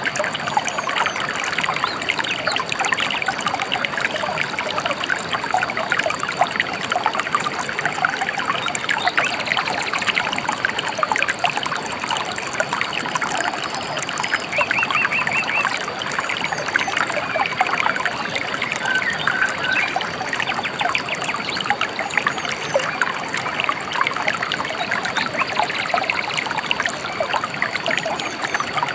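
Gently flowing river trickling and babbling steadily. A bird chirps a quick run of notes about halfway through.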